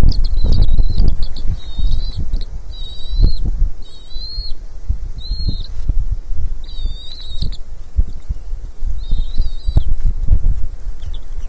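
Bald eagle calling at the nest: a series of short, high, wavering chirps, about one every second, stopping near the end. Loud, gusty wind rumble on the microphone underneath.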